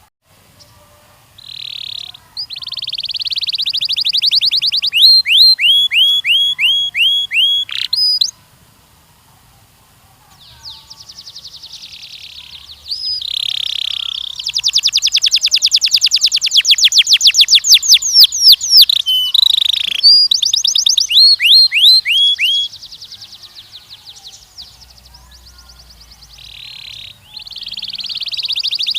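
Canary singing long phrases of fast trills and rolls and runs of repeated down-sweeping notes, with short pauses between phrases.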